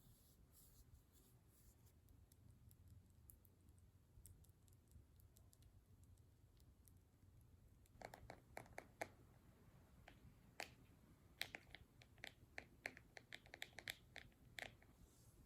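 Quiet, irregular small clicks and taps from objects handled close to the microphone as ASMR triggers. The first half holds only faint ticking; about halfway in, the clicks grow sharper and come in quick runs.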